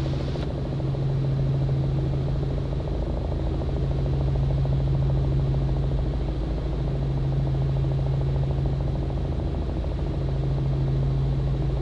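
Robinson R44 helicopter in flight, its piston engine and rotors making a steady, unchanging drone in the cabin.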